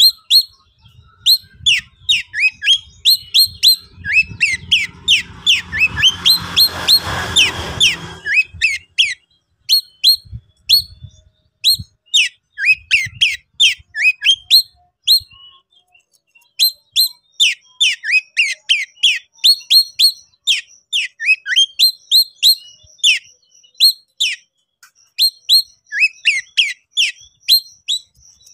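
Oriental magpie-robin (kacer) singing in rapid 'konslet' style: a fast, loud string of sharp, down-slurred whistled notes with only a short pause partway through. About five seconds in, a burst of noise with a low rumble lies over the notes for a few seconds.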